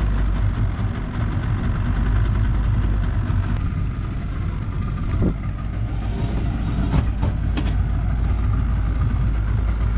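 Motorboat engine idling with a steady low rumble, plus a single knock about seven seconds in.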